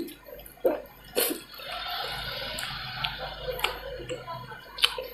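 Wet, close-up eating sounds of dal and rice, with squishing and smacking and a few sharp clicks.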